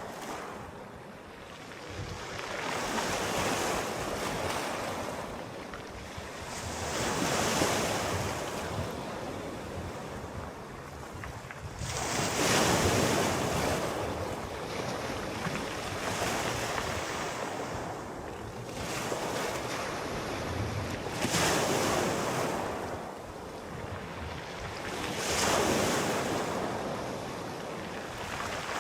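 Sea waves rolling in and washing on the shore, rising and falling in slow surges about every four to five seconds.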